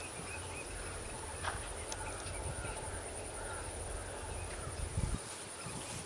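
Outdoor field ambience: a steady, high-pitched insect drone with faint, scattered bird chirps over a low wind rumble.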